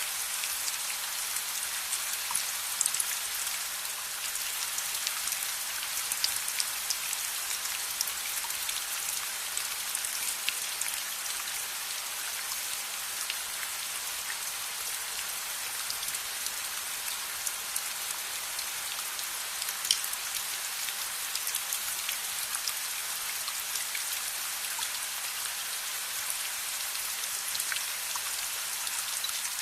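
Steady rain ambience mixed with a crackling fire: an even hiss of rain with scattered sharp pops and ticks, a few louder pops standing out.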